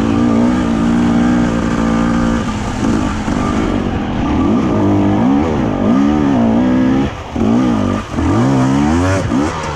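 Off-road enduro motorcycle engine, first holding a steady note, then revving up and down over and over, about once a second, as the throttle is worked.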